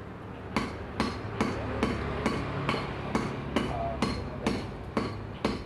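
Steady hammering, about two blows a second, beginning about half a second in.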